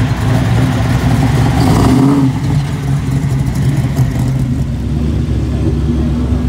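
Chevrolet Chevelle muscle car's engine rumbling as it rolls past at low speed, with a short rev about two seconds in. Another car's engine comes in near the end.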